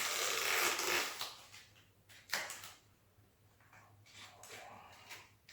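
Rustling and crinkling of duct tape being pulled off a cracked ceramic floor tile and handled. It fades about a second in, followed by a few light clicks and rustles.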